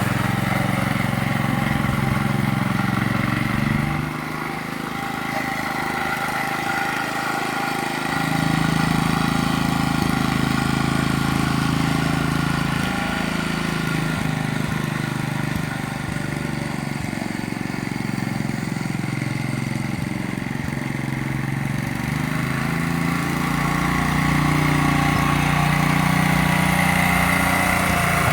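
Farmer's Boy light tractor's small engine running with its rotavator attachment fitted, the engine note dropping about four seconds in, picking back up around eight seconds, easing again midway and rising once more near the end.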